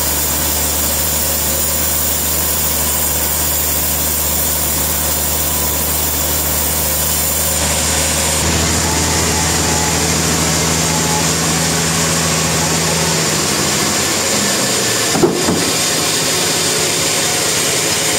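Portable sawmill running steadily, its low drone shifting slightly in pitch about eight seconds in and again near thirteen seconds, with one brief knock about fifteen seconds in.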